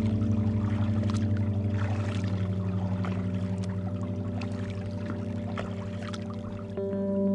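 Kayak paddle strokes: water splashing and dripping in irregular short splashes, over background music of sustained tones with a pulsing bass.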